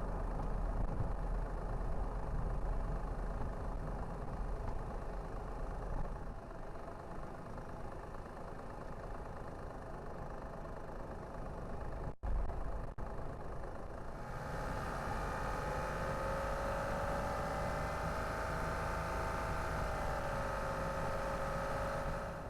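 Car driving, a steady low rumble of engine and road noise. After a brief break about twelve seconds in, a steady whine of several tones joins it, dipping slightly in pitch near the end.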